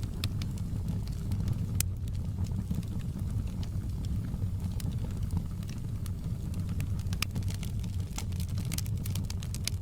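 Wood fire burning in a fireplace: a steady low rumble of flames with irregular sharp crackles and pops, more of them toward the end.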